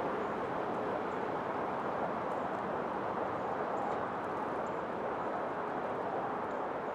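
Storm ambience: a steady, even rushing noise that holds at one level throughout, with no distinct events.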